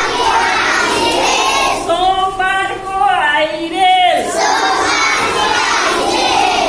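A group of children loudly chanting a Hindi rhyme together, many voices at once.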